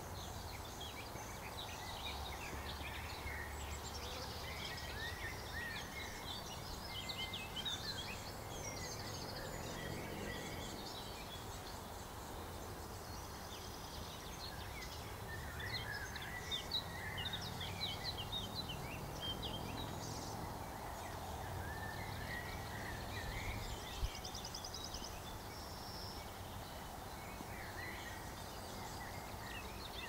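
Several wild birds singing and calling at once over a steady outdoor hiss: many short chirps and whistles overlapping, with a fast high trill about halfway through and again a few seconds before the end.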